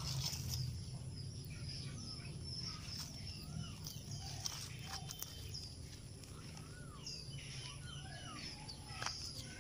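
Small birds chirping and calling, many short rising and falling chirps scattered throughout, over a low steady hum.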